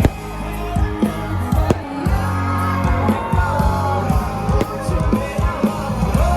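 Live Hindi rock band playing, with drums, bass and guitar and some singing.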